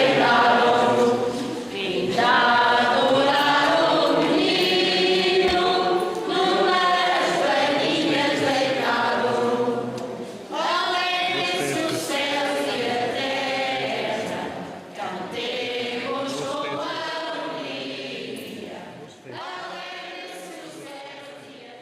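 A choir singing in phrases a few seconds long, fading gradually quieter toward the end.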